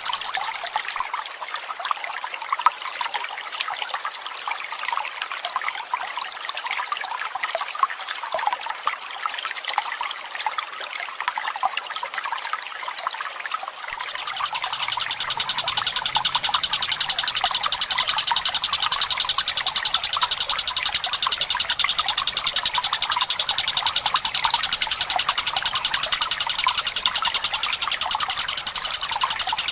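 Water trickling and splashing; about halfway through, a Tengkek Buto's fast, unbroken rattling trill comes in on top and carries on.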